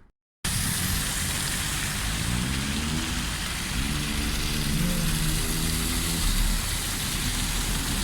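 Steady rushing noise of a car driving, which starts abruptly after a brief moment of silence.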